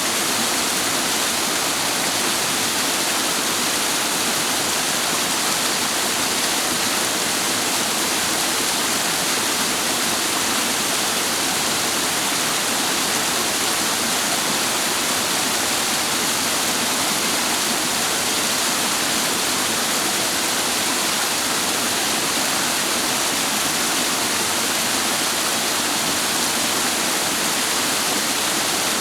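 Clear mountain water rushing and splashing over rocks, a loud, steady, unbroken rush.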